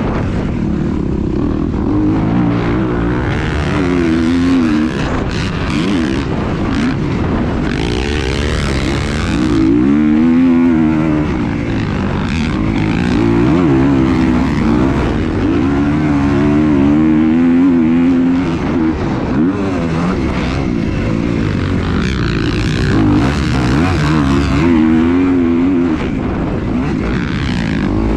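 A vehicle engine running, its pitch rising and falling again and again as the throttle is opened and eased off.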